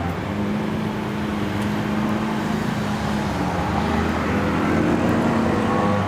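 Lamborghini Aventador LP700-4's V12 engine running with a steady note, its pitch shifting a little past the middle and rising slightly toward the end as it gets a touch louder.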